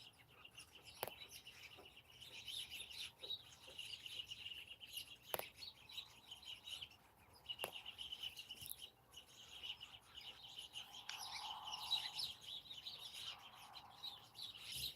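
Small birds chirping and twittering, with many short, high calls overlapping throughout. Three sharp clicks stand out: about a second in, near the middle, and a little after.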